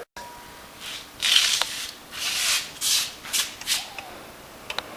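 A series of uneven scraping strokes of a tool rubbed against a child's workbench.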